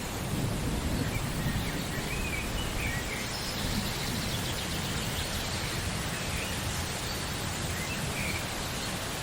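Steady rain falling, with a few faint bird chirps now and then.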